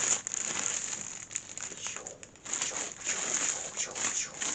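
Plastic packaging crinkling and rustling on and off while parts of a photo studio lighting kit are unwrapped and handled, with a short lull about two seconds in.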